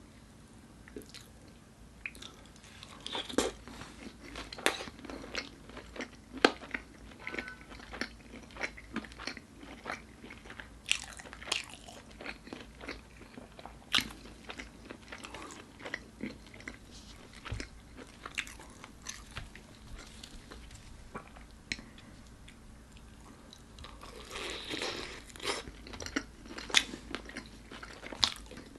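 Close-miked eating of crispy fried chicken: crunchy bites into the battered skin and chewing, with many sharp crackles throughout and a denser burst of crunching near the end.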